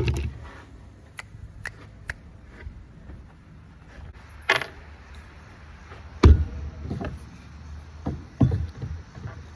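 Scattered knocks and light clicks of wooden pieces and screws being handled and set in place while a box is assembled, the heaviest knock about six seconds in.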